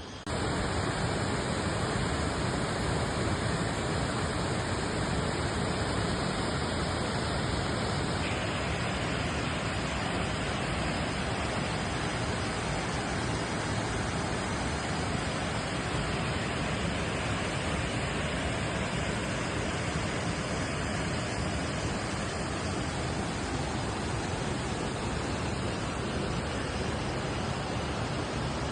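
Waterfall rushing: a steady, even noise of falling water that comes in abruptly right at the start and holds unchanged.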